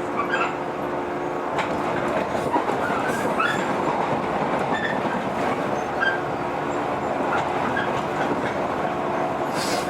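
JR 115 series electric train running on the rails: steady rolling noise with a low hum, a few sharp wheel clicks over rail joints and brief high squeaks from the wheels.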